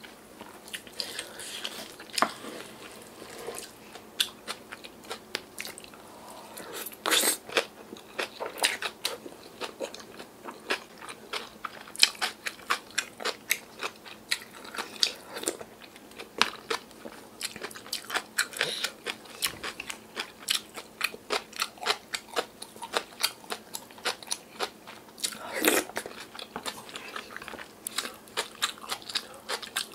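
Close-miked chewing and biting, about two moist clicks and crunches a second with a few louder clusters, as mouthfuls of young radish kimchi bibimbap and doenjang stew are eaten.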